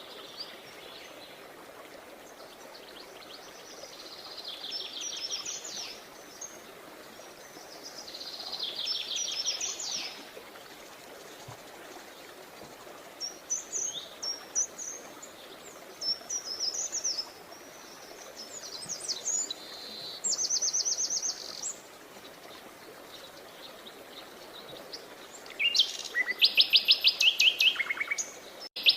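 Songbirds singing in short phrases of rapid trills and chirps every few seconds over a steady faint background hiss, with the loudest, fastest trills near the end.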